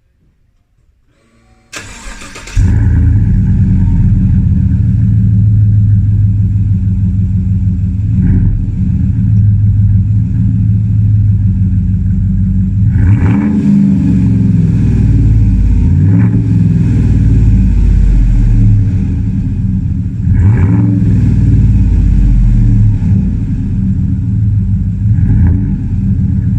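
Chevrolet Silverado 5.3-litre V8 with JBA shorty headers and a Flowmaster Outlaw cat-back exhaust starting about two seconds in, then idling loudly. It is revved briefly several times in the second half.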